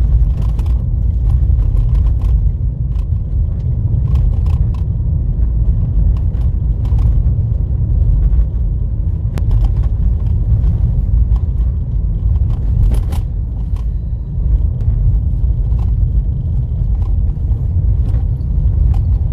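Car driving on a rough, potholed dirt road: a steady low road rumble with scattered clicks and knocks.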